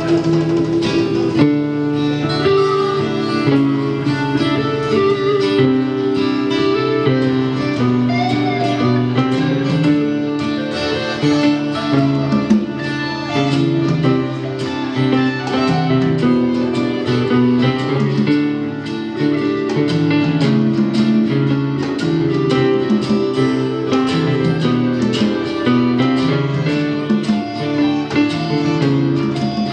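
Live band playing an instrumental break, led by guitar with plucked, picked notes over a steady rhythm, without singing.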